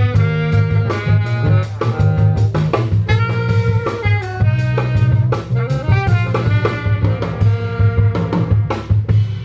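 Band playing jazz-style music: a drum kit keeping a steady beat over a deep bass line, with horns carrying the melody.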